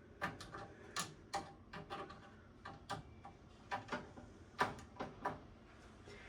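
Screwdriver with an extension bar working at a stubborn screw deep in a computer case: a run of light, irregular metal clicks, with one louder click a little past halfway.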